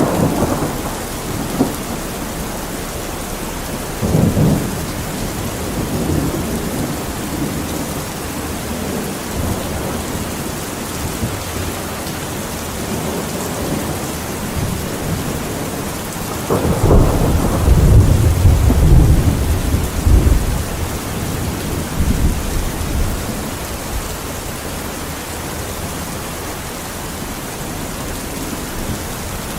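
Steady rain falling, with rolls of thunder rumbling over it: a short one near the start, another around four seconds in, and a long, loud roll in the middle.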